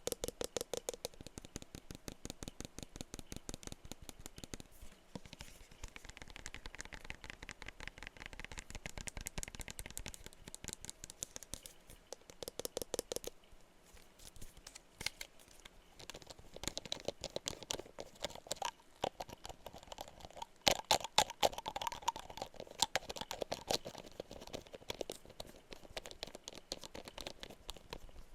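Rapid tapping on perfume bottles, many taps a second, with a brief pitched ring from the bottles at a few points. The loudest taps come a little past two-thirds of the way through.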